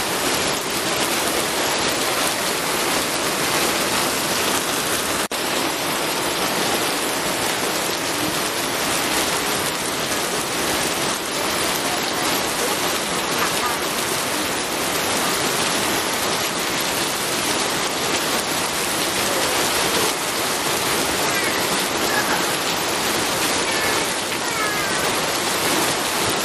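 Steady rain, an even hiss of falling drops with no let-up.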